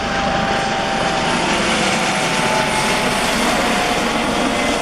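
Loud, steady engine noise from a mass of motorcycles running together in a procession, with a few faint held tones over it.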